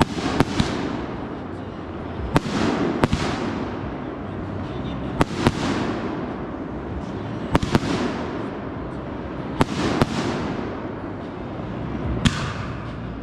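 Consumer aerial fireworks going off in a steady string, sharp bangs every two to three seconds, often in quick pairs, each followed by a fading hiss and crackle.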